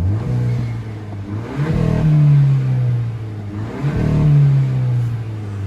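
Hyundai Elantra N-Line's 1.6-litre turbocharged four-cylinder, breathing through an open cone air filter, idling in sport mode and revved up twice, each rev rising and then falling back toward idle.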